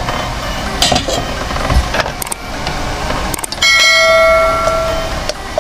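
Subscribe-button sound effect: a few clicks, then a loud bell chime held for about a second and a half near the end. Underneath, hands work grated coconut in a steel bowl and a plastic strainer.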